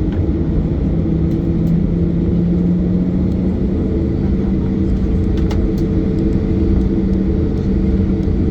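Cabin noise of a Boeing 737-800: the CFM56 jet engines and airframe give a steady low rumble with a hum that rises slightly in pitch over the first few seconds and then holds.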